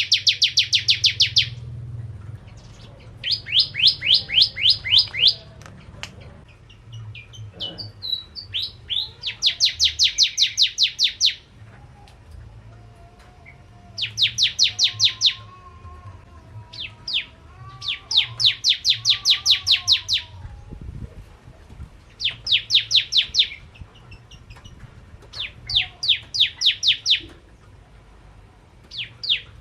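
Prenjak Jawa (a prinia) singing in repeated bursts: each phrase is a rapid string of sharp, high chipping notes, about seven a second, lasting one to two seconds and recurring every few seconds. Fainter, lower wavering whistles come between the phrases in the middle.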